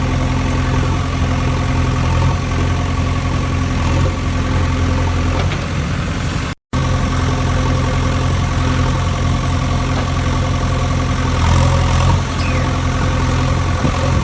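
An engine idling steadily with a low, even hum, cut off for a moment about six and a half seconds in.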